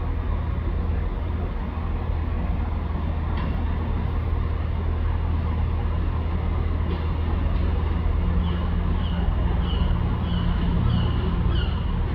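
CrossCountry Class 221 Voyager diesel-electric train running steadily at the platform, a low engine hum. From about eight seconds in, a series of short high chirps repeats about twice a second.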